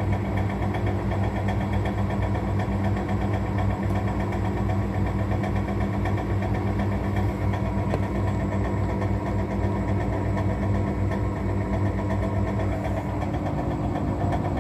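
Washing machine drum turning with a steady motor hum and a fast, even rattling knock running through it, which the owner suspects comes from something bent inside the drum.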